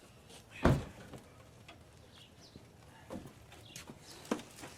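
A single heavy thump about a second in, then two lighter knocks, from car body parts being handled during bumper refitting. Faint bird chirps in the background.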